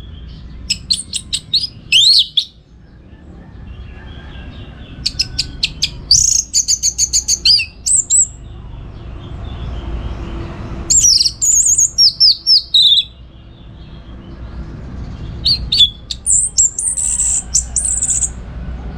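Orange-headed thrush singing: short high phrases of rapid chattering notes and downward-slurring whistles, repeated with pauses between them, over a steady low background hum.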